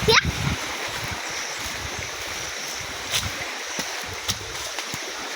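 Stream water rushing steadily, with wind buffeting the microphone. There is a short rising chirp right at the start and a few faint clicks later.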